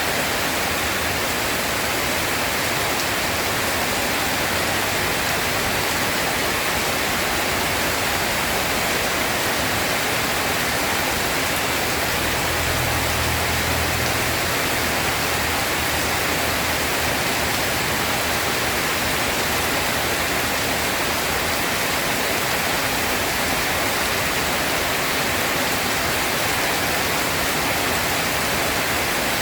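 Steady heavy rainfall, an even hiss without break. Partway through, a faint low rumble of distant thunder rolls under it for a few seconds.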